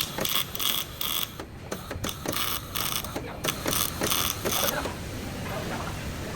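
A workshop tool making a mechanical sound in short repeated bursts, two to three a second, that stop about five seconds in.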